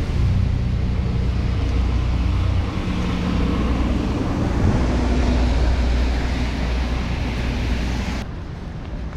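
City street noise in a snowstorm: a steady low rumble of wind on the microphone mixed with traffic. It drops suddenly and turns thinner near the end.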